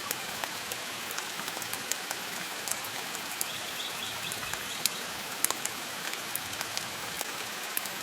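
Steady rain falling, with scattered sharp crackles and pops from a wood fire in a stone fireplace.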